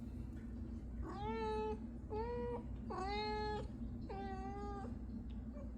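Domestic cat meowing four times in a row, each meow drawn out and held at a fairly level pitch, as a cat does when it wants to be let outside.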